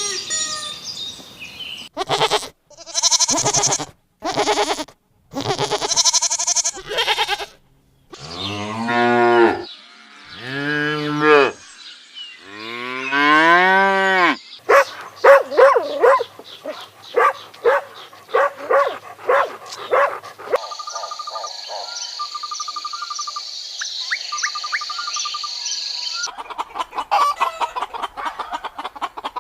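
A string of farm animal calls, led by cows mooing: several long drawn-out moos that bend in pitch near the middle, among shorter calls from other animals.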